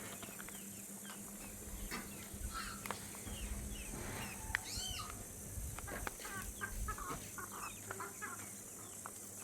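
Scattered short animal calls, with one longer call that rises and falls about halfway through.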